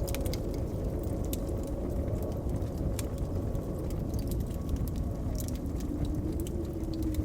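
Wood fire crackling with irregular sharp pops, over a low rumbling blizzard wind that howls with slowly rising and falling tones.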